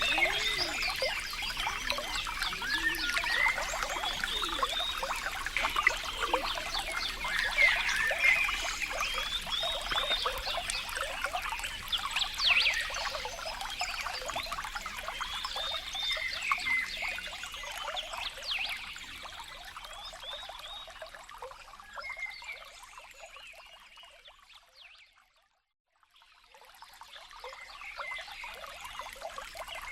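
Water trickling and splashing, with many short calls from small animals such as frogs over it. The whole sound fades out to silence about 25 seconds in, then fades back up near the end.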